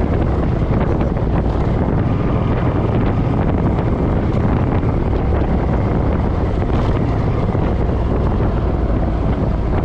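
Steady wind rush buffeting the microphone of a camera riding on a Suzuki M50 motorcycle at speed, with the bike's running and road noise underneath.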